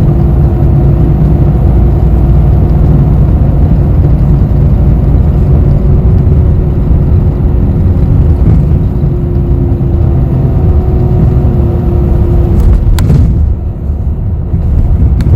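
Cabin noise inside a moving city bus: a steady low engine and road rumble with a held hum. About thirteen seconds in, two sharp clicks sound and the rumble eases off a little.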